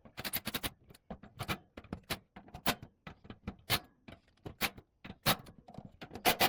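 Irregular sharp clicks and knocks of metal parts and tools being handled while a blower motor assembly is fitted and adjusted, about one or two a second.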